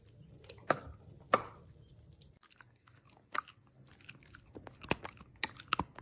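A pet chewing food with irregular crisp crunches; the loudest come about a second in, and a quick run of them near the end.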